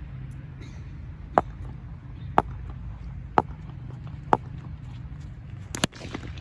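Four sharp knocks about a second apart, then a quick double knock near the end, over a steady low rumble.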